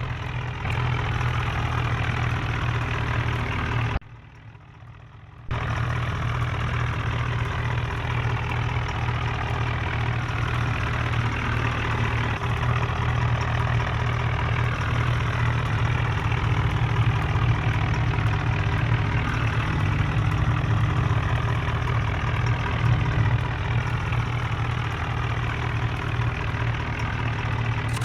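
Tractor engine running steadily at a constant speed, dropping to a much lower level for about a second and a half around four seconds in.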